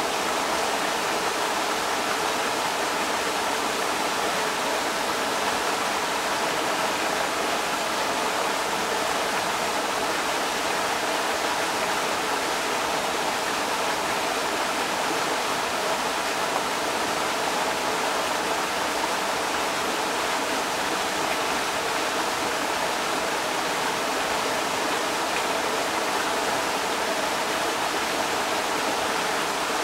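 Creek water rushing over rocks in a steady, unbroken rush.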